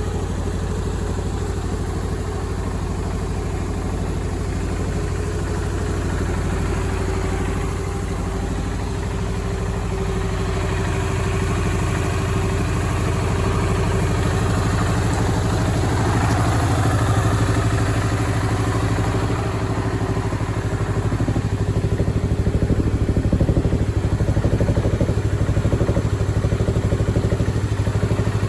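Yamaha Grand Majesty 250 scooter's single-cylinder four-stroke engine running at idle, a steady even beat that grows a little louder in the second half.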